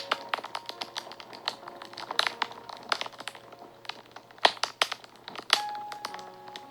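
Fire crackling and popping: a dense run of sharp snaps, two louder pops about four and a half and five and a half seconds in, over soft background music of held notes.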